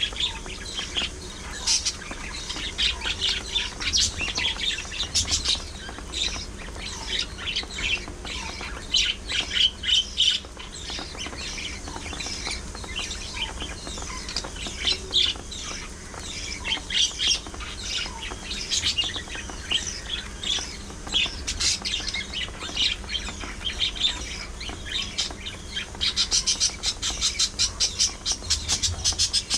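Budgerigars chattering and squawking: a steady stream of short, quick chirps and harsh calls, with a denser, faster burst of chatter near the end.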